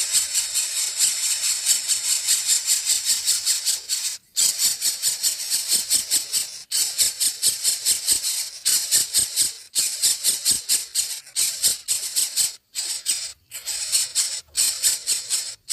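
Nestling birds begging with rapid hissy, high-pitched calls, about four a second, broken now and then by short pauses.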